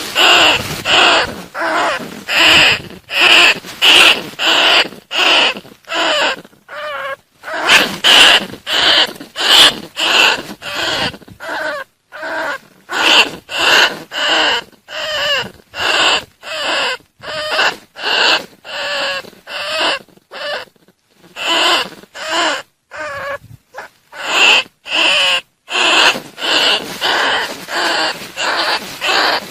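Bandicoot rat calls: harsh, rapid squeaking cries repeated about twice a second, with a few brief pauses.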